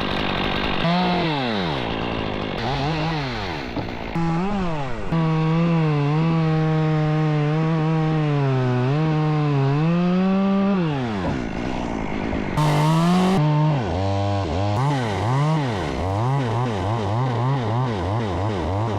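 Gas chainsaw revving and cutting, its engine pitch sagging under load and climbing again as the cut frees. The sound changes abruptly a few times, and near the end the revs waver quickly up and down.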